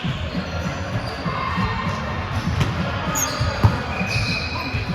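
Volleyball play echoing in a large gym: scattered thuds and faint calls from players, with one sharp ball impact about three and a half seconds in.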